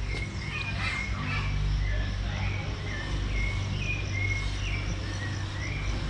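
Wild birds calling in woodland: a string of short whistled chirps, some sliding up and some sliding down, over a low steady drone.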